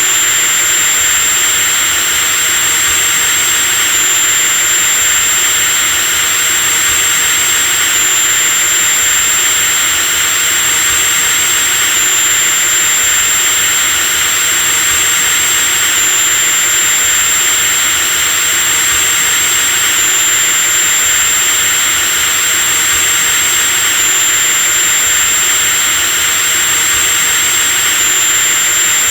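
Electric drill motor running continuously at one steady speed: a high whine over a dense hiss, with a slight seam about every four seconds where the recording repeats.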